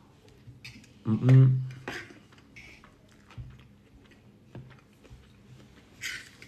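A man chewing a mouthful of couscous, with faint mouth clicks and a brief vocal sound through his full mouth about a second in. Near the end a short scrape of the fork against the wooden bowl.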